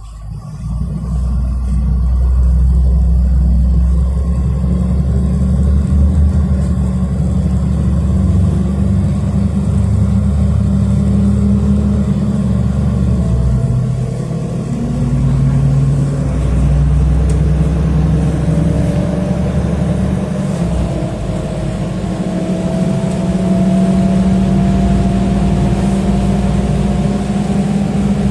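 City bus engine and drivetrain heard from inside the bus while it drives between stops: a loud, steady low rumble, with a whine that rises slowly in pitch through the second half as the bus gathers speed.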